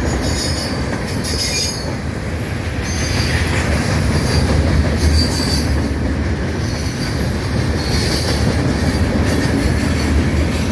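CSX freight train's cars rolling past close by: a steady loud rumble of wheels on rail, with thin high-pitched wheel squeals coming and going several times.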